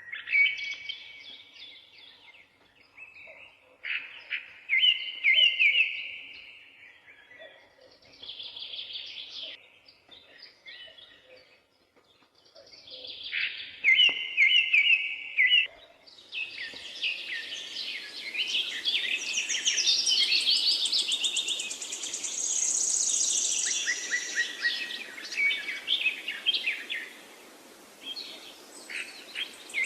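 Songbirds singing, repeated short chirping phrases with gaps between them. About halfway through a denser chorus of several birds sets in over a steady background hiss.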